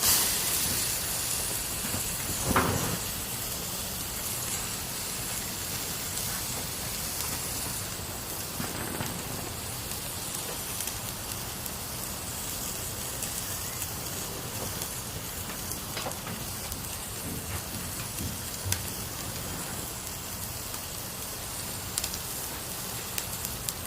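Steady, even hiss of noise across all pitches, with a few faint clicks or knocks, the clearest about two and a half seconds in.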